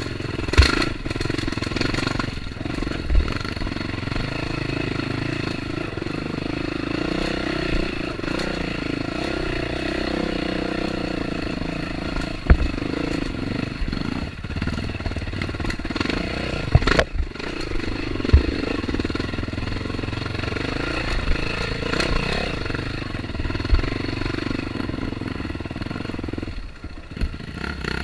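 Dirt bike engine running under way, its revs rising and falling again and again, with several sharp knocks along the way.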